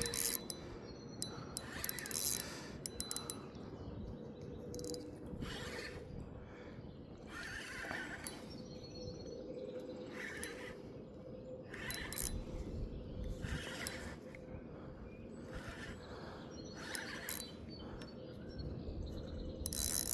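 Fishing reel being cranked in short bursts with pauses between them while a hooked fish is reeled in. A run of fast clicks comes in the first few seconds.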